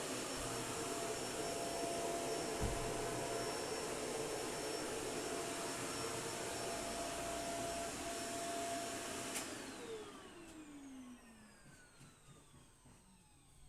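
Vacuum cleaner running steadily with a high whine, switched off about nine seconds in; its motor whine then falls in pitch as it spins down.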